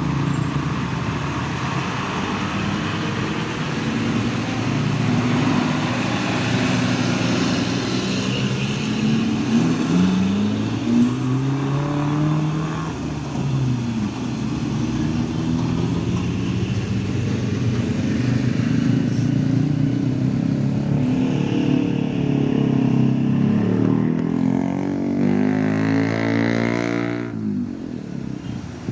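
Diesel engines of heavy trucks labouring up a steep climb, several vehicles overlapping, their engine notes rising and falling. One engine note rises steadily near the end, then drops away abruptly.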